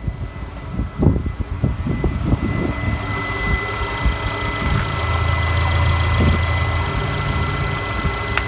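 Opel X22XE 2.2-litre four-cylinder petrol engine catching after some uneven knocks and settling into a steady idle with a thin constant whine.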